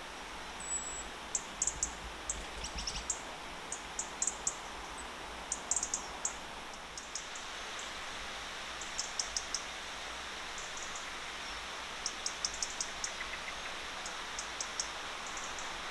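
Small birds calling with quick, very high-pitched chirps in scattered clusters, over a steady outdoor hiss.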